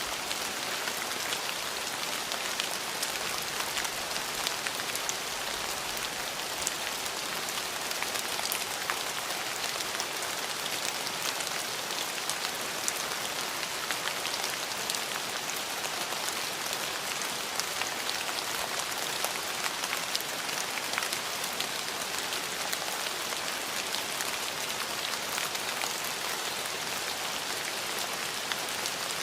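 Steady rain falling, an even hiss of many small drops pattering on surfaces, with individual drop ticks scattered through it.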